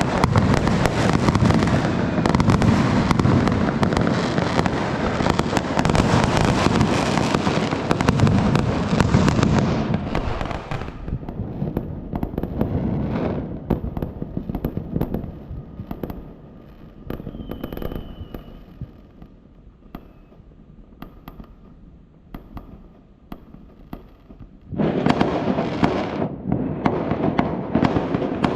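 Fireworks going off in a dense, continuous barrage of crackling and bangs. It thins to scattered cracks about ten seconds in, then builds back to a dense barrage near the end.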